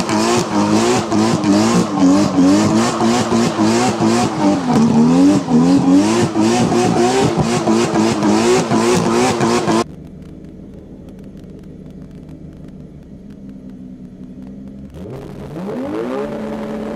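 A tuned car engine revving hard, its pitch rising and falling over and over. It cuts off suddenly to a quieter steady engine, which then revs up and holds a higher pitch near the end.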